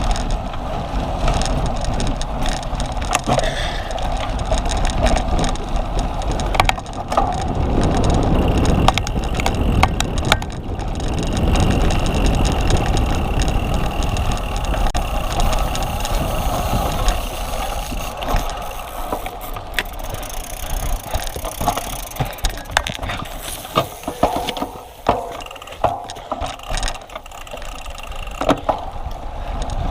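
Cyclocross bike ridden over rough ground: a continuous rattle of chain and frame with many scattered clicks and knocks over a low rumble, the rumble heavier in the first half.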